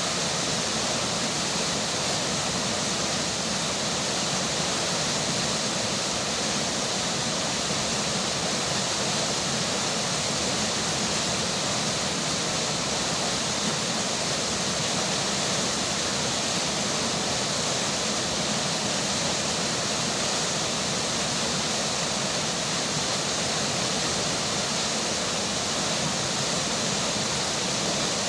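Flowing river water with rain falling, a steady, even rushing hiss with no breaks or changes.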